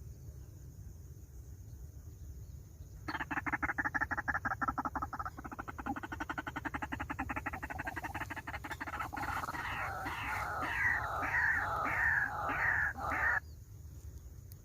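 White-breasted waterhen calling: a fast rattling churr begins about three seconds in, then turns into a run of repeated falling croaks, about three a second, that stop shortly before the end.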